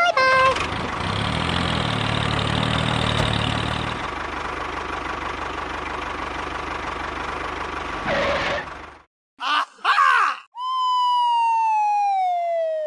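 A motor engine runs roughly for about nine seconds and then cuts off. Two short chirps follow, then one long whistle that falls steadily in pitch.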